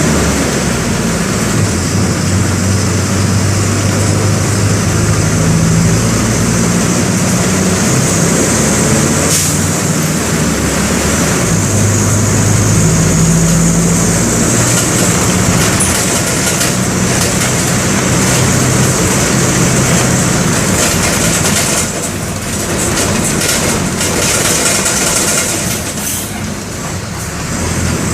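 Mercedes-Benz OM-924 LA four-cylinder inline turbodiesel of an OF-1722M bus running under way, its pitch rising and falling several times, over steady road noise. It eases off briefly twice near the end.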